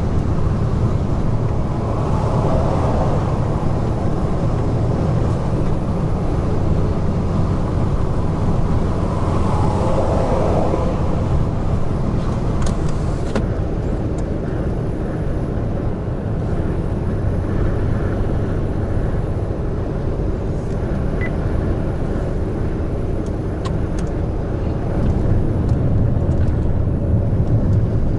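Heavy truck cruising on the expressway: steady low engine and road rumble, with two short swells of louder noise about two and ten seconds in.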